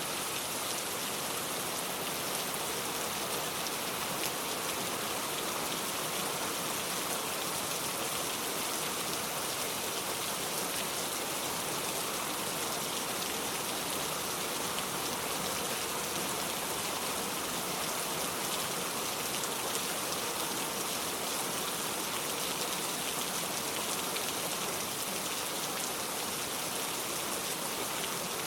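Steady rain falling, an even hiss with fine patter of drops landing on a surface.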